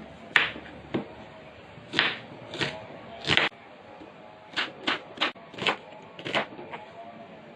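About ten short, irregularly spaced knocks and scrapes of kitchen utensils and ingredients being handled during cooking prep.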